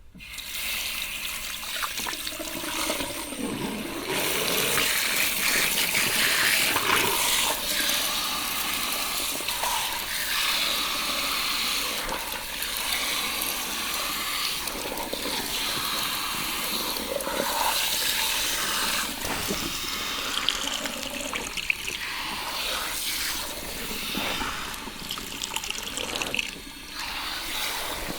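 Water spraying from a salon shampoo-bowl shower head onto hair as it is rinsed, a steady rush of water that comes on suddenly at the start.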